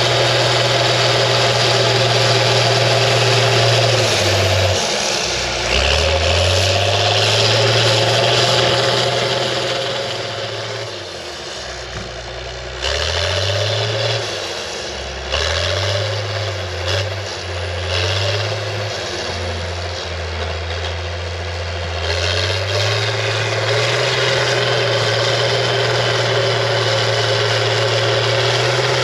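International TD15C crawler dozer's DT466 diesel engine running hard. Its note drops and comes back up several times in the middle stretch, then holds steady again near the end.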